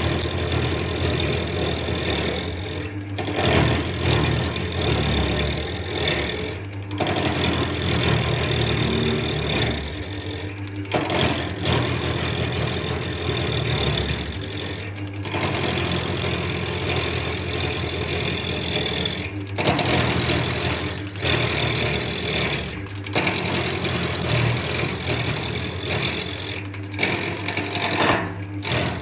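Wood lathe motor running steadily, with a tool working the spinning wood and giving a broad hiss. The sound breaks off briefly every few seconds.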